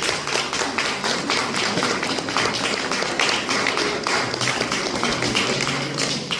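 Wedding guests applauding, many hands clapping at once, over soft background music.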